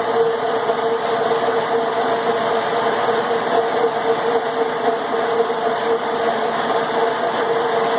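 Milling machine cutting steel with a 2-inch four-flute end mill: a steady grinding cut with a constant mid-pitched whine, with no chatter.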